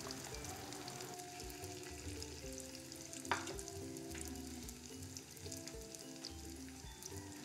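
Ube biko turon, sticky-rice rolls in lumpia wrappers, sizzling steadily as they fry in a pan of oil, under soft background music with a steady beat. A single sharp click about three seconds in.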